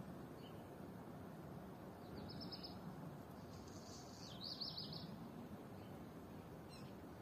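A bird singing faintly: two short runs of rapid high notes, about two and four seconds in, over steady low outdoor background noise.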